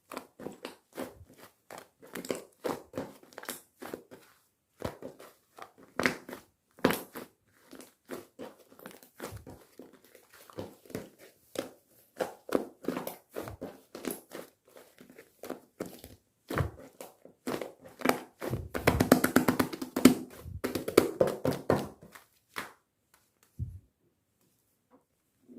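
Liquid slime mixed with shaving foam being worked by hand, giving a run of wet squishes and sticky clicks. The sounds come thickest and loudest about three-quarters of the way through, then stop shortly before the end.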